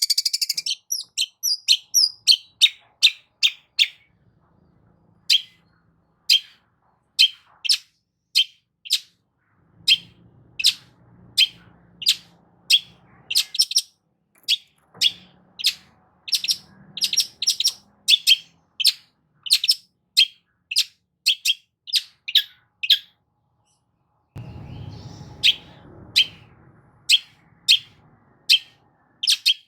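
Long-tailed shrike (cendet) singing a rapid series of short, harsh, high notes, about two a second, with a pause of a second or so near the start. A brief low rumble comes under the song about 25 seconds in.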